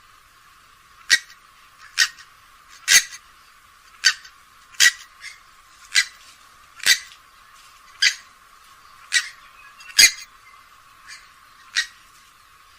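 Grey-headed swamphen giving a series of short, sharp call notes, about one a second, some louder than others.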